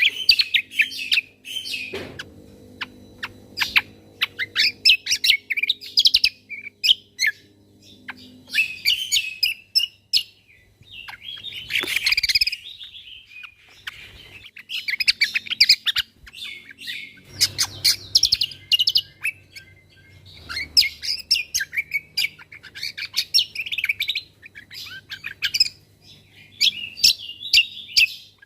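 Cucak kombo (kecial kombo) songbird singing its rapid-fire 'tembakan' song: fast strings of high chirps and trills in phrases of a few seconds with short pauses between, over a faint low hum.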